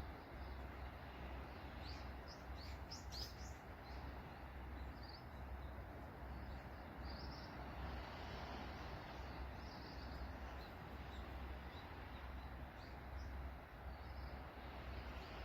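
Small birds chirping in short scattered calls, a quick run of them about two to three seconds in, over a steady wash of sea waves and a low rumble.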